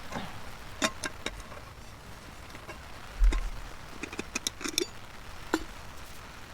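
Camp cookware and utensils being handled: a series of sharp clicks and light knocks, with one heavier thump about three seconds in and a quick run of clicks a second or so later.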